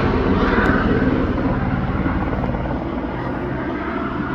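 Police helicopter flying overhead, its rotor giving a rapid, even beat over a steady engine hum that eases slightly as it moves off.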